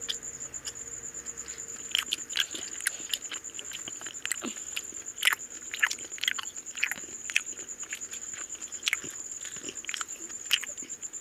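Close-up eating sounds: wet chewing, lip smacks and mouth clicks from mouthfuls of mutton curry and rice eaten by hand, coming irregularly, several a second at the busiest.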